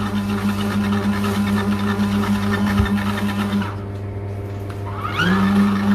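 A mini foldable washing machine's small electric motor hums steadily, cuts out about three and a half seconds in, then starts up again with a rising whine about five seconds in.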